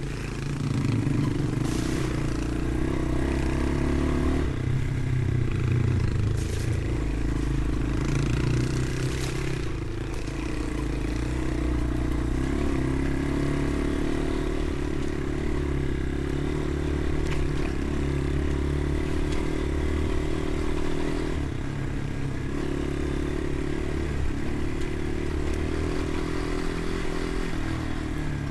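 Motorcycle engine running under way, with wind and road rush. The engine note changes a few times, as with throttle changes or gear shifts.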